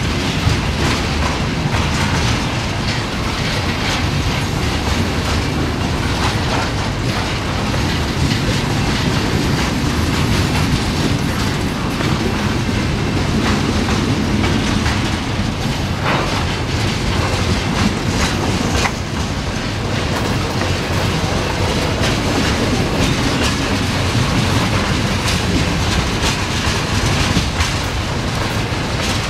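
Freight train tank cars rolling through a level crossing: a steady rumble of steel wheels on rail with repeated clacking as the wheels pass over the rail joints and crossing.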